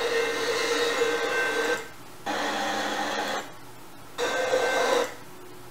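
Recorded passing-train noise played back on a computer, cut into short snippets that start and stop abruptly as the train video is skipped ahead. A steady held tone sits over the rail noise for the first two seconds and returns briefly about four seconds in.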